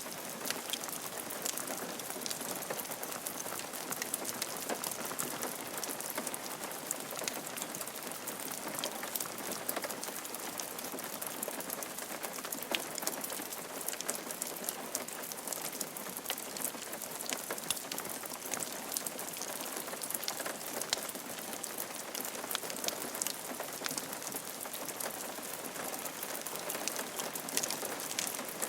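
Steady rain falling on a roof: an even hiss with many separate, sharp drop hits scattered through it.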